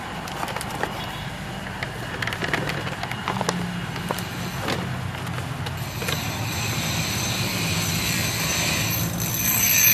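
Honda Fit engine idling steadily, with scattered clicks and knocks over it. A hiss joins about six seconds in.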